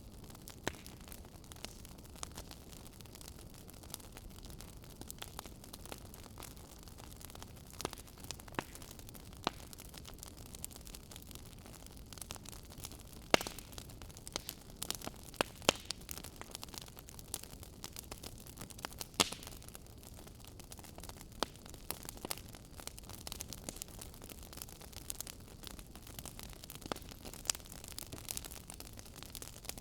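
Wood fire burning: a steady low hiss with irregular crackles and sharp pops from the burning wood, several louder snaps in the middle.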